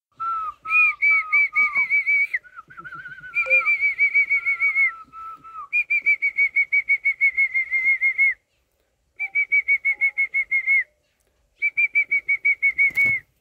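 A bird calling: rapid runs of high whistled notes, about six a second, each note dipping slightly in pitch, in bursts of one to three seconds with short pauses. A lower, slower series of notes overlaps them in the first few seconds, and a single sharp knock comes near the end.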